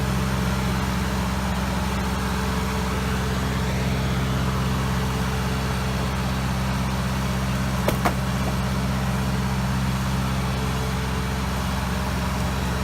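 Engine idling steadily, with one sharp click or knock about eight seconds in.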